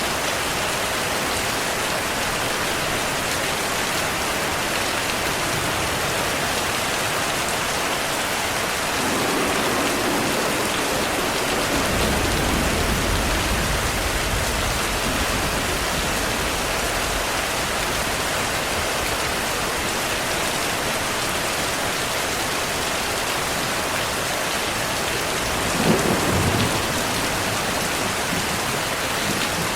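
Steady heavy rain with rolling thunder. A deep rumble builds from about nine seconds in, and a sharper thunderclap with a short rumble comes near the end.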